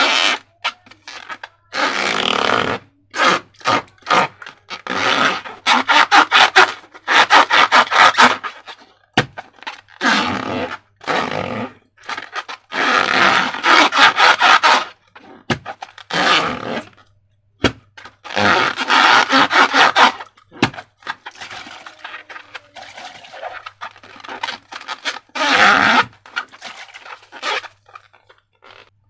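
Slime being squeezed and worked by hand, in repeated crackling, squelching bursts of half a second to two seconds each.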